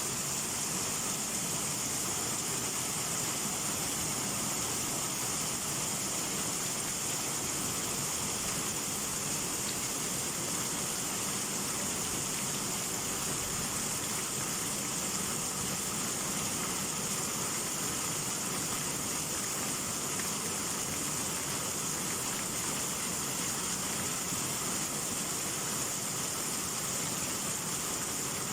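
Heavy rain pouring down steadily, an even hiss of a summer downpour.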